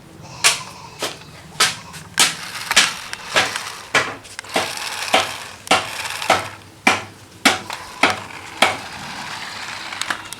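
A steady series of sharp knocks or bangs, about fifteen strikes evenly spaced a little over half a second apart, stopping a little before the end.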